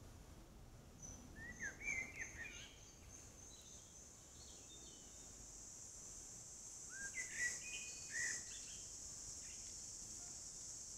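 A woodland songbird singing two short phrases of quick rising chirps, about a second and a half in and again about seven seconds in, over a faint steady high-pitched hiss.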